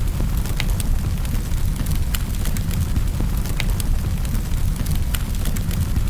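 Wood fire crackling in a fireplace: a steady low rumble of the flames with scattered sharp pops and snaps, a few each second.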